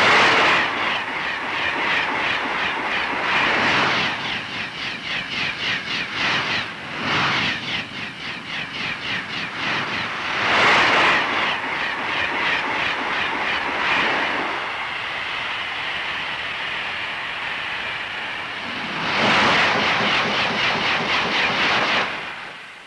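Train running on rails: a fast rhythmic clatter with several loud surges of hiss. It drops away just before the end.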